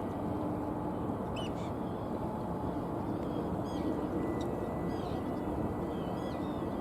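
Arctic terns giving short calls several times, over a steady background rumble of open-air harbour noise.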